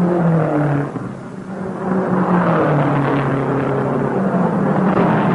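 Racing car engines running loud as cars pass, swelling and fading in pitch: one pass at the start, then a longer one from about two seconds in.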